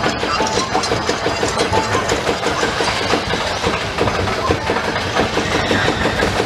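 A spinning roller coaster car climbing the chain lift hill, with a rapid, even clacking from the lift mechanism over a steady mechanical rumble.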